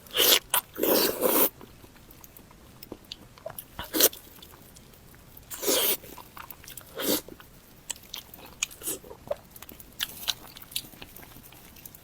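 Close-miked eating: loud bites and chewing in the first second and a half, another sharp bite about four seconds in, more loud bites around six and seven seconds, then softer chewing and mouth clicks.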